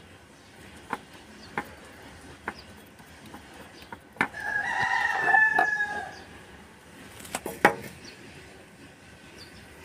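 A drawn-out bird call lasting about a second and a half, midway, with sharp clicks and knocks scattered around it; the loudest knocks come as a quick pair near the end.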